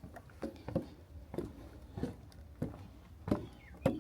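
Footsteps and trekking-pole taps on a boardwalk trail: a regular series of sharp knocks, about one every half to two-thirds of a second, some close together in pairs.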